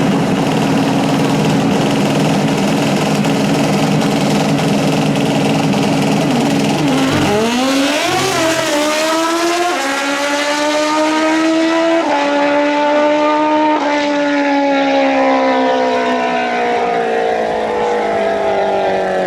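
Drag-racing motorcycle engine held at steady high revs for several seconds, then launching about seven seconds in. It accelerates hard, its pitch climbing and then slowly falling as it runs away down the strip.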